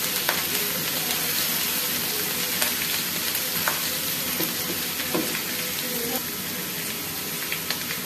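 Ginger-garlic paste sizzling in hot oil in a nonstick wok as it is fried to brown, with a steady hiss. A silicone spatula stirs through it, adding a few light scrapes and taps.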